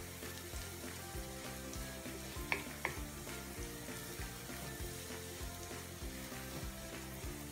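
Minced garlic sizzling gently in oil in a nonstick pan as it is stirred with a wooden spatula, with two sharp clicks of the spatula against the pan about two and a half seconds in. Background music plays underneath.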